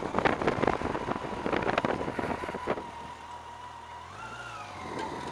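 Motorcycle engine running while riding, with wind crackling and buffeting on the microphone for the first few seconds. The engine pitch rises briefly and falls again near the end.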